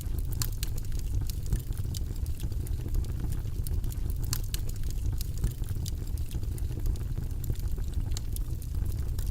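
Steady low, rumbling background noise track, with scattered light clicks throughout.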